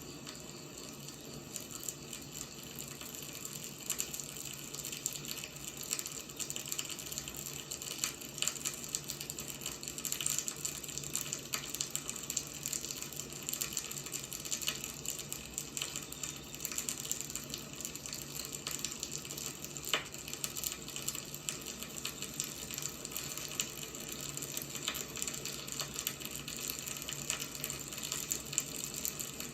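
Wood fire burning steadily, the logs crackling and popping in a dense run of small snaps.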